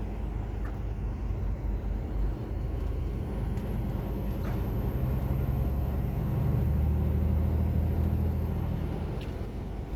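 A truck's diesel engine running, getting louder from about halfway in and easing off near the end, with a faint high whine above it over the same stretch.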